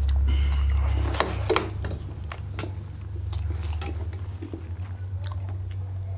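Close-miked chewing and wet mouth sounds of someone eating a mouthful of momo (steamed dumplings), with scattered small clicks and a sharp knock about a second in. A low rumble sits under the start and weakens after about a second.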